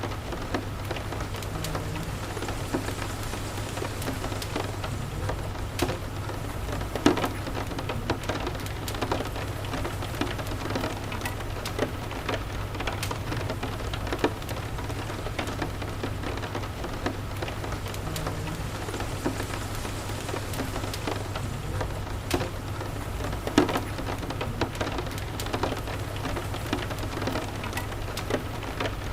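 Steady rain with a continuous low rumble underneath, dotted with scattered sharp pops and clicks; two louder pops stand out, about 7 seconds in and near the three-quarter mark.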